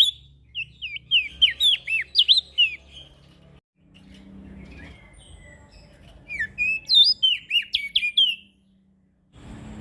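Prenjak daun songbird singing a fast, repeated series of sharp chirps that sweep down and back up in pitch. One burst lasts about three seconds and a second, more varied burst comes about six seconds in. Near the end the song stops and a faint hiss takes over.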